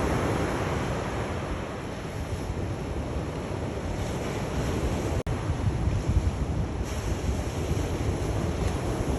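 Sea waves washing continuously on the shore, a steady surf noise heavy in the low end. There is a momentary dropout in the sound a little past halfway.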